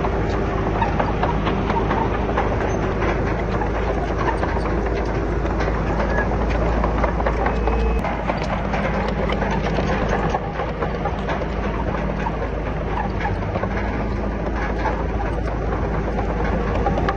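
Crawler bulldozer's diesel engine running under load with a dense clatter of steel tracks and rock. The sound shifts abruptly about eight seconds in and again near ten seconds.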